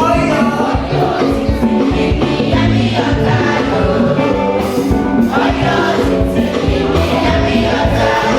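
Church choir singing a gospel song over instrumental accompaniment with percussion, loud and continuous.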